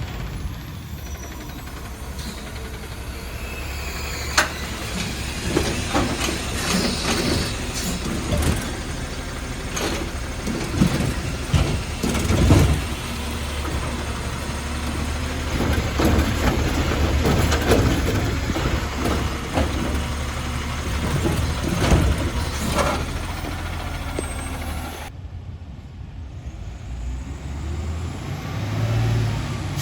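Garbage truck engine running steadily, with repeated metallic clanks and knocks.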